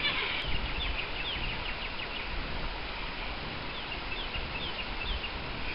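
A bird calling: two runs of short, high, falling chirps, the second starting about four seconds in.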